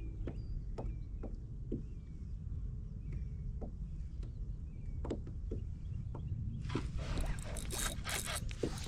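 Scattered light knocks around the kayak, with a bird chirping faintly. About two-thirds of the way through, loud splashing starts as a hooked fish, a sand bass, thrashes at the water's surface while it is reeled in.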